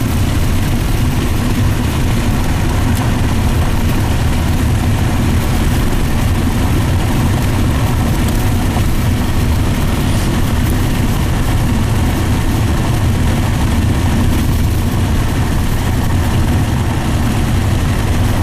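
Steady drone of a car cruising at highway speed, heard from inside the cabin: tyre, road and engine noise.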